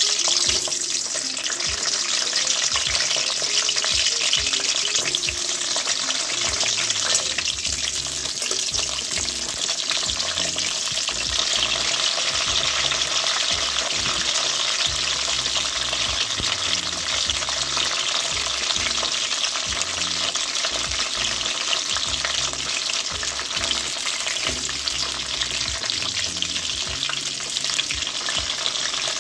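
Whole pointed gourds (parwal) frying in hot oil in a kadhai: a steady sizzling hiss throughout.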